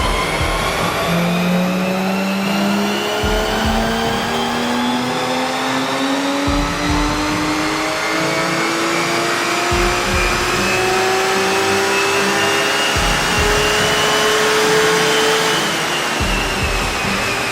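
Porsche 991 GT3 flat-six engine through an iPE aftermarket exhaust, revving up in one long, steady climb towards high revs and then easing off near the end.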